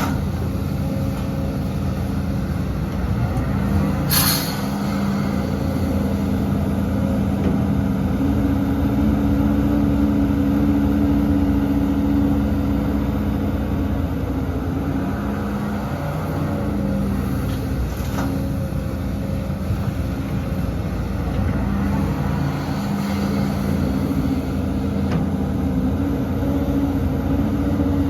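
Heavy diesel engine of earthmoving equipment running steadily, its note shifting a few times. A short, sharp hiss comes about four seconds in, like an air brake releasing, and a fainter one around eighteen seconds in.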